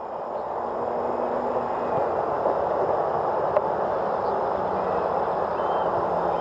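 Electric RC airplane flying overhead: a steady rushing propeller noise that swells over the first second or two, with faint thin motor tones riding on it.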